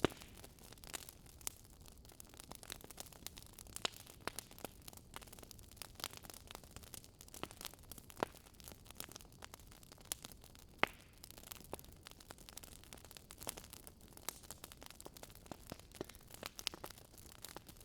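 Wood fire crackling, with sharp irregular pops and snaps over a faint steady hiss.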